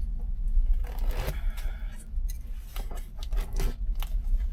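Cardboard product box being handled: scraping, rubbing and clicking of the packaging, with a longer scrape about a second in, over a steady low rumble.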